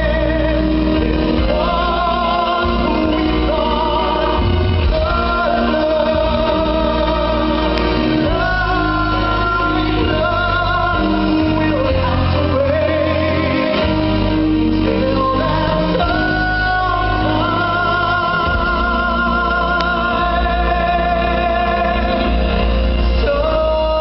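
Live concert music: a singer holds long notes with vibrato over a full band accompaniment, with the reverberation of a large hall.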